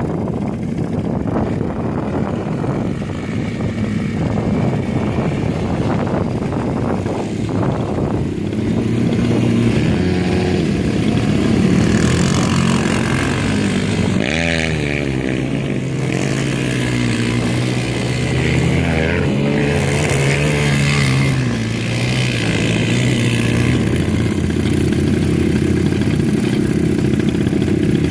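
ATV engine running under load and being revved, its pitch rising and falling again and again, with a quick run of up-and-down sweeps about halfway through.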